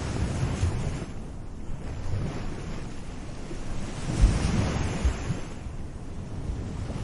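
Gentle sea waves washing onto a beach, one wave swelling louder and breaking about four seconds in. Wind buffets the microphone with low rumbles.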